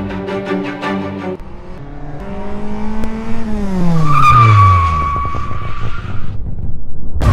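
A car engine's pitch falling steadily as the car speeds past, with a high tyre squeal about four seconds in. Music plays for the first second or so, and there is a sudden loud hit at the very end.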